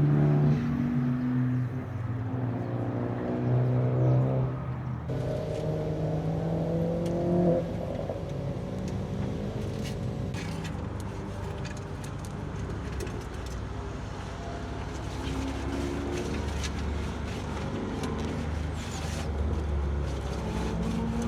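BMW E46 M3 CSL's straight-six engine running, with revs changing in steps through the first several seconds, then settling lower and steadier from about eight seconds in, with scattered sharp ticks and knocks.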